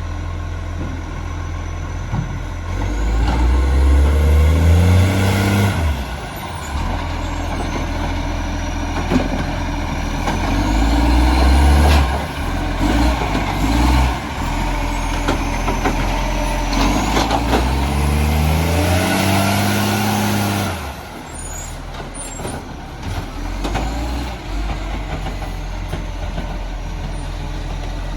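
Recycling truck's diesel engine running, revving up twice for a few seconds each and dropping back sharply, with a high whine that rises and falls alongside.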